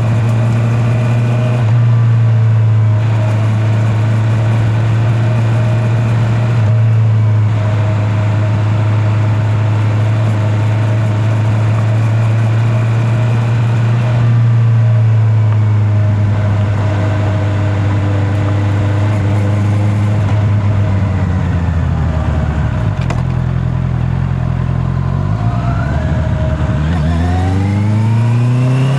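Honda CB650R's inline-four engine running at steady cruising revs, heard from a microphone in the rider's back pocket. About twenty seconds in, the revs drop low as the bike slows. Near the end the engine revs up steeply under acceleration.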